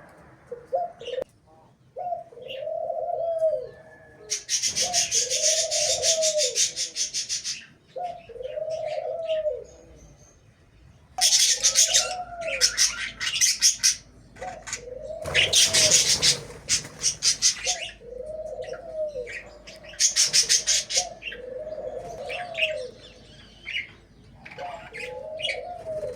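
Caged birds calling: a low, rising-and-falling cooing call repeats every couple of seconds, while a smaller bird breaks in four times with bursts of fast, high trilling chirps, the loudest sounds in the stretch.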